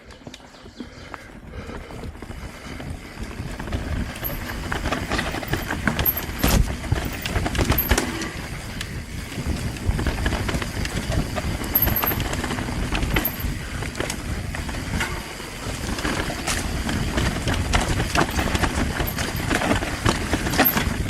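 Mountain bike rolling down a rough, rocky trail. Tyre noise comes with frequent knocks and rattles as the bike hits rocks and roots, and it gets louder over the first few seconds as speed builds.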